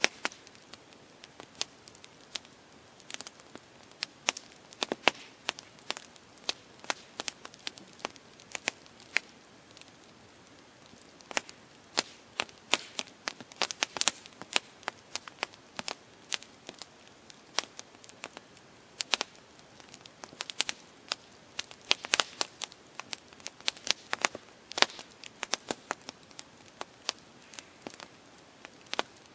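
Campfire crackling: burning wood gives off irregular sharp pops and snaps over a faint hiss, coming thicker in spells.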